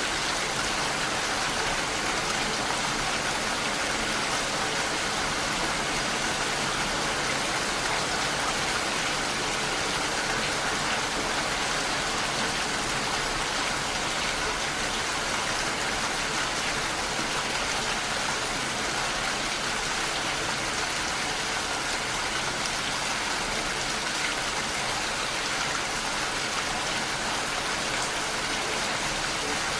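Steady, even rain falling, a continuous hiss with no separate drops standing out.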